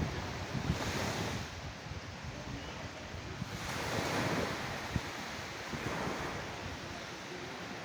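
Sea waves washing in and breaking on the shore, with wind buffeting the microphone. The surf swells up about a second in and again around four seconds in.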